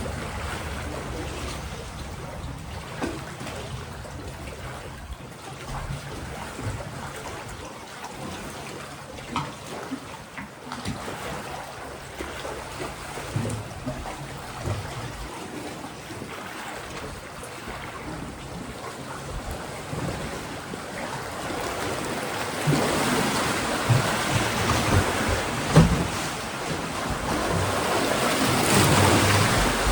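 Mediterranean sea waves washing and breaking against rocky shore below a cave, a continuous surf wash with irregular splashes. The surf grows louder over the last third, with the strongest splashes late on.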